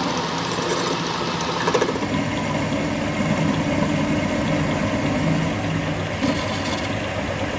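Workshop machinery running steadily, with an even mechanical drone. The sound changes abruptly about two seconds in.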